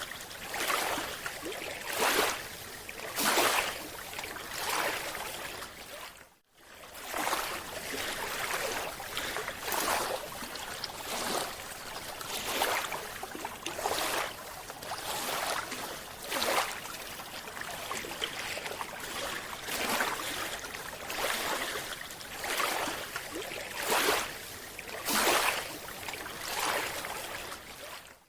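Underwater water noise: a steady hiss with rushing swells about once a second, dropping out briefly about six seconds in.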